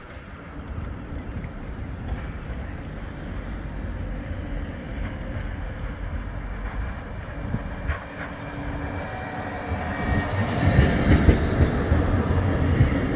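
Flexity 2 tram approaching and passing, getting steadily louder, with the rumble of steel wheels on rail swelling about ten seconds in and a high-pitched wheel squeal over it near the end.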